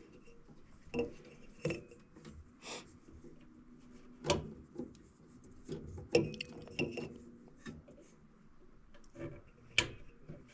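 Hands and tools working on a gas furnace: a string of separate clicks, knocks and light rattles of small parts and metal panels being handled, the sharpest about six and nearly ten seconds in.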